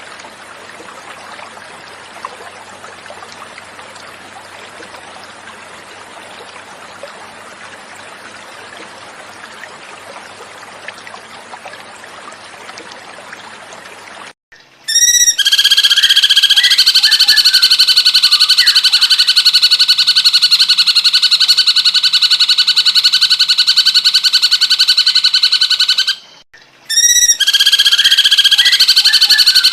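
Running stream water for the first half. Then a loud, rapidly repeating high trilling song of a cucak cungkok starts about halfway, stops for about a second near the end and starts again.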